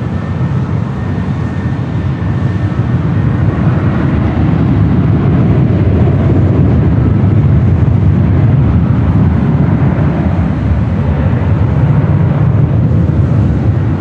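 Boeing 717's twin Rolls-Royce BR715 turbofan engines at takeoff power, a loud low roar that builds over the first few seconds, holds, and eases slightly near the end as the jet climbs away.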